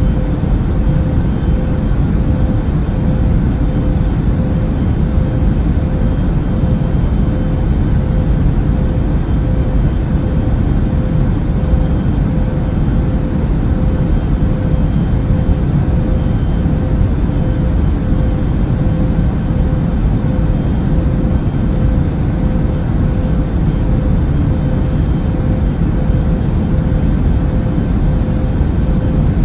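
Steady airliner cabin noise in cruise: a deep, even rumble of engine and airflow with a faint steady hum, as heard inside an Airbus A380.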